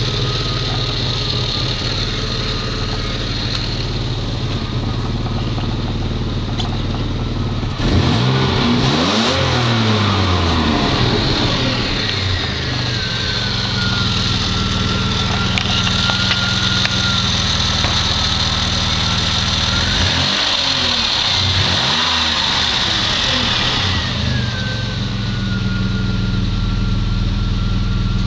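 Renault Safrane's V6 engine idling steadily, then revved up and back down twice, about eight and twenty seconds in. After each rev a high whine drops in pitch and then holds steady.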